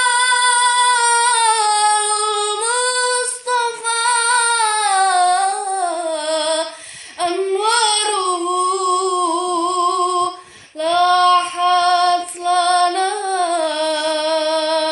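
A woman singing solo and unaccompanied, holding long notes with a wavering vibrato, breaking off briefly for breath a few times.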